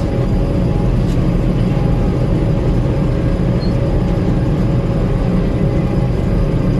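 Gleaner M2 combine running steadily while harvesting corn, heard from aboard the machine: a constant engine and threshing drone with a few steady whining tones over it.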